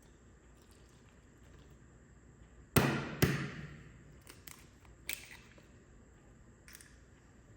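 Two sharp knocks about half a second apart, each with a short ringing tail, then a few lighter clicks: kitchen items being handled and set down, over a steady low hum.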